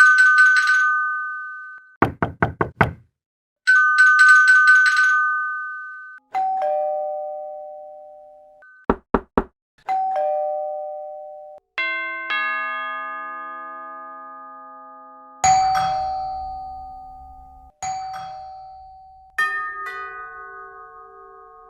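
A string of doorbell and door-knock sound effects. There is a rapidly pulsing two-tone electronic ring, then several quick raps on a door, then two-note ding-dong door chimes, and then a longer chime of several notes that rings out and fades.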